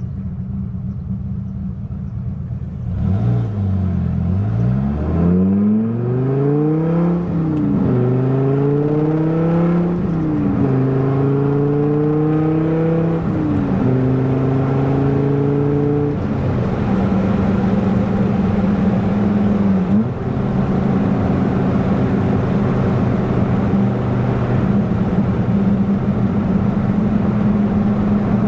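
1997 Dodge Viper GTS's 8.0-litre V10 accelerating up through the gears of its T56 six-speed manual. The engine note climbs from about three seconds in and drops back at four upshifts, made at about 4,000 rpm rather than at full revs. It then settles into a steady cruise.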